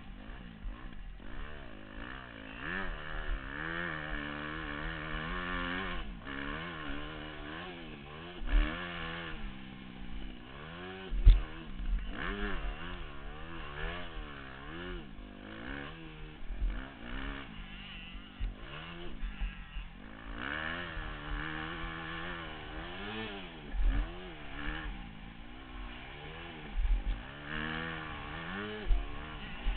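Motocross bike engine on a ride-along camera, revving up and falling off again and again as the bike is ridden around the track. Several sharp knocks cut through it, the loudest about 11 seconds in.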